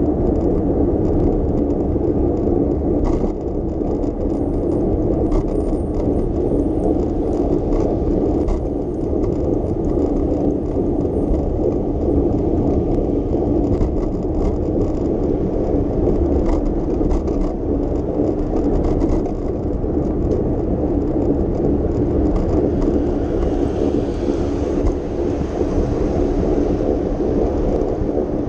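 Steady rumble and rattle of a bicycle being ridden over city streets: tyres on the road surface and the bike's frame and parts rattling, with light clicks scattered through.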